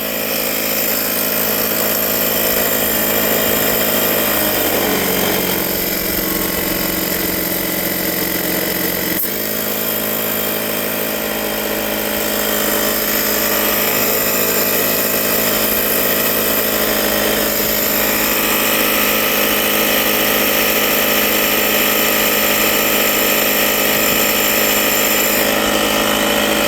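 Loud motor-driven machine running steadily. Its pitch drops about four seconds in and jumps back up with a click about nine seconds in.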